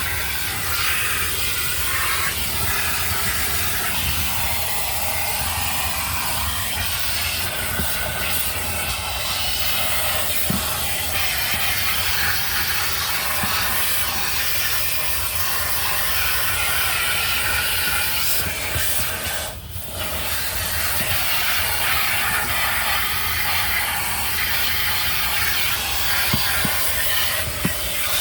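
Automatic car wash working over the car, heard from inside the cabin: a steady hiss of spray or air against the body over a low rumble, dipping briefly about twenty seconds in.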